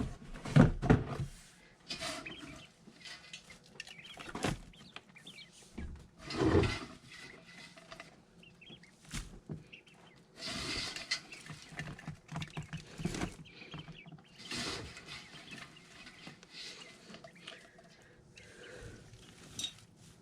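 Young brooder birds peeping and chirping among rustling wood-chip bedding, with scattered knocks and handling noises. The loudest are a pair of thumps just after the start and another at about six and a half seconds.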